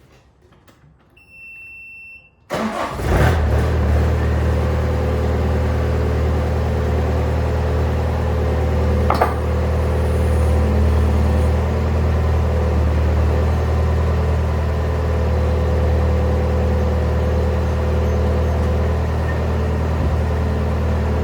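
A 2012 Bobcat T190 skid-steer's key-on warning beep sounds for about a second, then its diesel engine starts about two and a half seconds in and runs steadily. A single sharp knock comes about nine seconds in.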